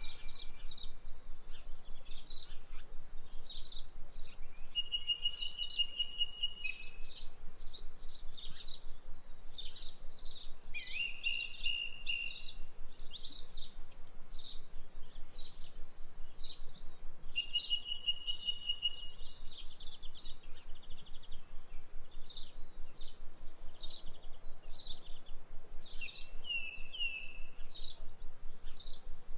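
Birds chirping and singing: a dense run of short high calls, with a rapid trill recurring every few seconds.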